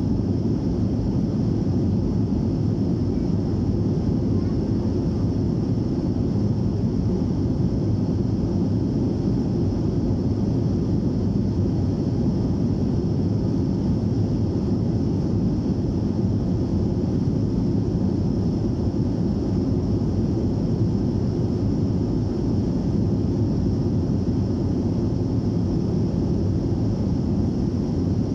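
Cabin noise of a BAe 146-200 airliner, its four turbofan engines at climb power: a steady low rush with a faint high whine above it.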